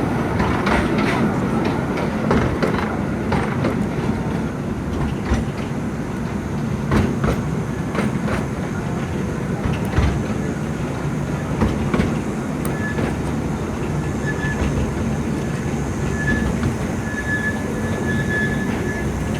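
Narrow-gauge forest railway train running, heard from on board: a steady rumble of the wheels on the track with scattered knocks at the rail joints. A faint high wheel squeal comes and goes in the last third.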